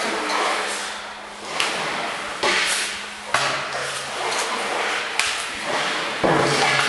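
Kayak paddling: the paddle blades dip and splash in the water about once a second, with a few sharp knocks.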